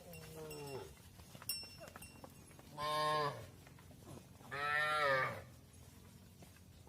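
Cattle mooing: three long calls, a softer one at the start and two louder ones after it, the last the loudest.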